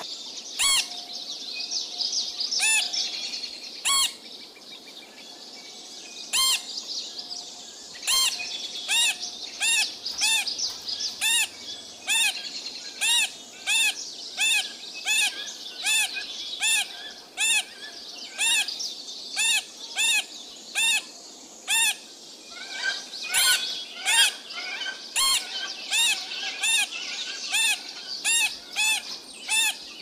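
Birdsong: one bird repeats a short, clear call that rises and falls in pitch, a few scattered calls at first and then a steady series of about two a second. Other birds chirp continuously in the background.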